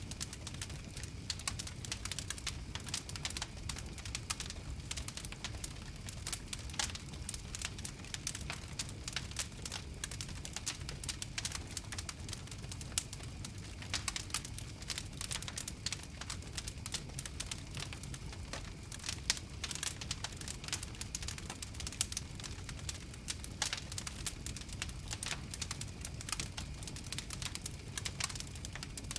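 Wood fire crackling steadily, a dense run of sharp pops and snaps over a low, steady rumble of the burning.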